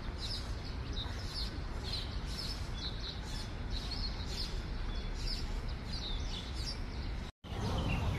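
Small birds chirping in quick, repeated short calls over a steady low outdoor background noise, with a brief dropout near the end.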